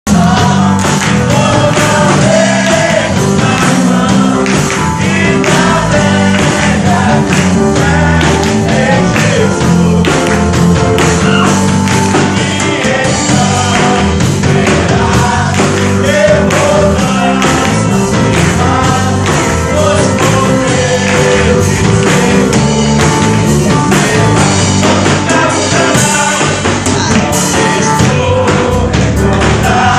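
Men's voices singing a gospel worship song together with a band accompaniment, a steady beat throughout.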